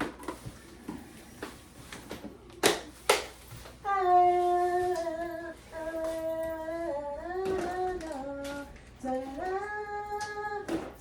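A few light knocks and two sharp taps, then a voice holding long wordless notes that step up and down in pitch.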